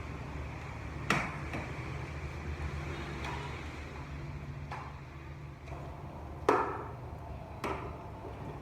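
A few sharp knocks at uneven intervals, the loudest about a second in and about six and a half seconds in, over a steady low hum.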